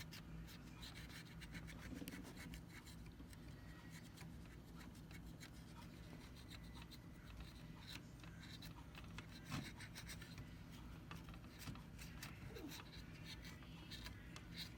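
Faint rubbing and scratching with scattered small clicks, from scrubbing grime off the toy's tape-player mechanism.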